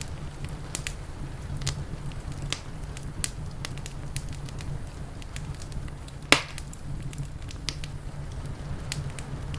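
Wood fire crackling with scattered sharp pops, one much louder pop about six seconds in, over a low steady rumble.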